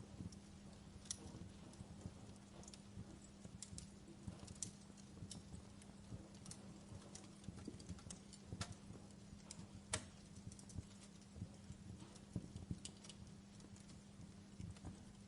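Wood fire crackling in a fireplace: irregular small snaps and pops, with two sharper pops about nine and ten seconds in, over a faint steady low hum.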